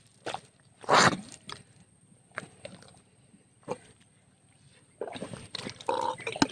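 Water splashing and sloshing as a fishing net is handled in the shallows, with one loud splash about a second in and a few light knocks and scrapes after it.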